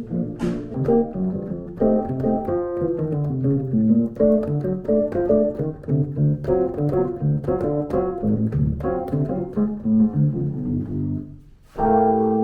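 Keyboard music: chords and a melody played on a piano-like keyboard with an organ-like tone. The notes change every half second or so, break off briefly near the end, then come back as a held chord.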